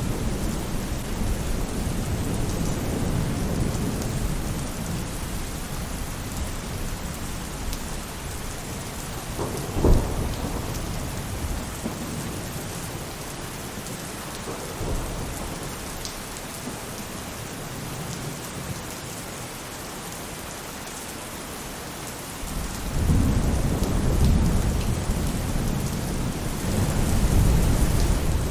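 Steady rain falling on a roof during a thunderstorm, with thunder rumbling at first and fading, a short sharp crack about ten seconds in, and a new roll of thunder building near the end.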